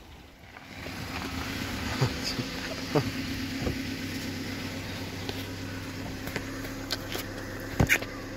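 Peugeot 206's 1.4 petrol four-cylinder engine idling steadily, a hum that comes up about a second in, with a few light clicks.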